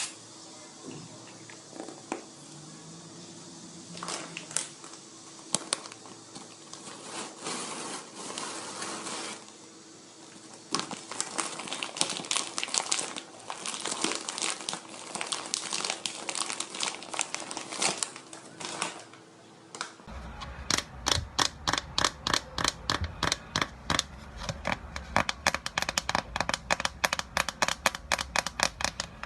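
ASMR trigger sounds with no speech: irregular crinkling and clicking for about two-thirds of the time, then, after a sudden change, fast rhythmic scratching or rubbing strokes, several a second.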